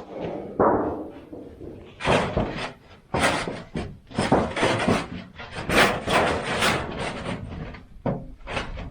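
Thin sheet metal being handled and bent by hand into a pipe: a string of irregular rattling, crinkling and scraping noises, about a dozen short bursts.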